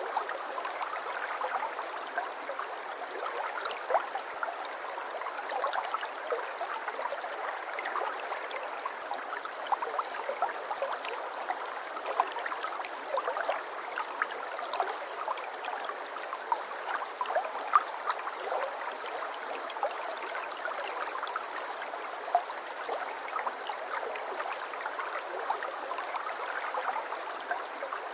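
Shallow brook babbling over stones: a steady rush of water dense with small splashes and gurgles.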